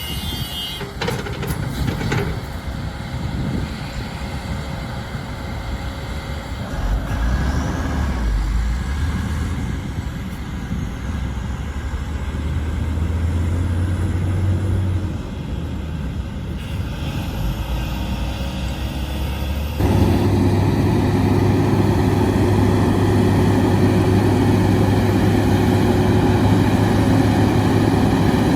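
Heavy diesel engine of a construction machine running under load. About two-thirds of the way through it revs up and stays louder and higher.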